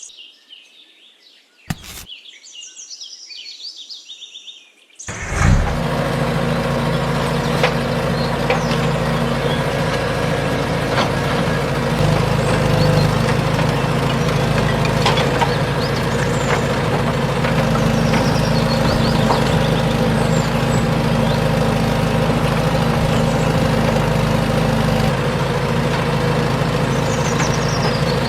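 Birds chirping, then about five seconds in a small motor starts abruptly and runs at a steady, even pitch.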